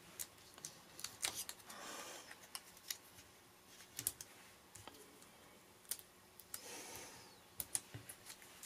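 Paper crafting at a table: light clicks, taps and short rustles of paper as small die-cut paper pieces are handled and stuck onto a card with foam adhesive pads.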